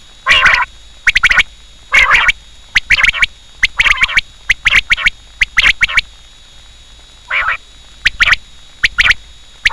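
Quail calling: a series of short, sharp call notes, about ten in quick bunches, with a pause of about a second past the middle.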